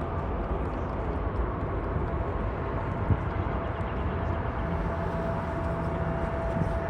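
Jet airliner engines running, a steady rumble with a thin steady whine over it.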